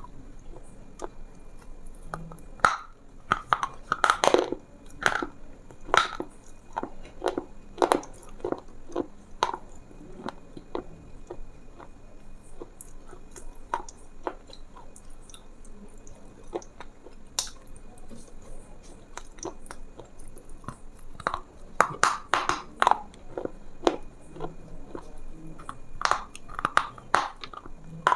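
A person chewing something crunchy, a run of sharp crunches and crackles. The crunching is dense for the first several seconds, thins out to a few scattered crunches in the middle, and picks up again near the end.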